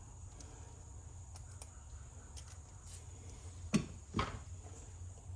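Small metal hardware being handled: a few faint clicks, then two short knocks close together near the end, as number 10 washers and screws are sorted and fitted by hand.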